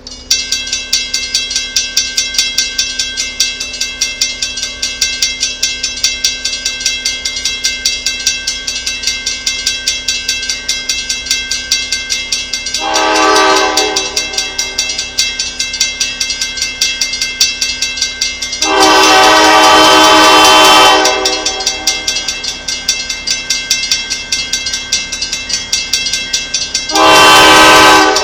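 A diesel locomotive on the move, its wheels clicking rhythmically, with a multi-chime air horn sounding three blasts: a short one about halfway through, then two longer ones near the end.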